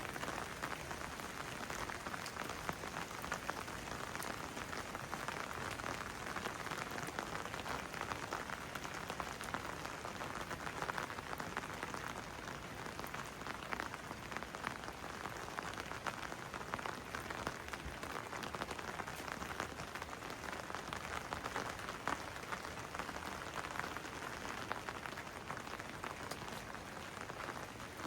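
Steady rain falling, a dense patter of many close individual drops.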